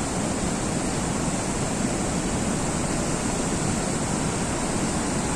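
Steady rushing of flowing water, an even noise that doesn't change.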